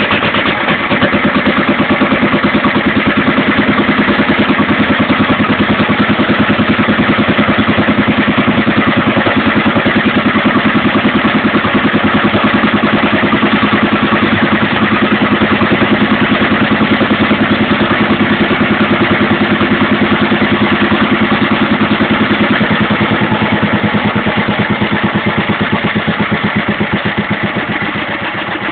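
1926 Bernard W2 stationary engine running steadily with an even, rapid firing beat. It gets a little quieter over the last few seconds.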